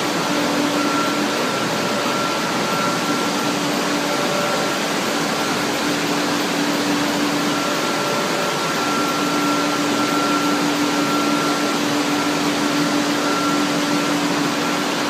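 Egg cooking and peeling production line machinery running: a steady mechanical whir with a faint hum that fades in and out.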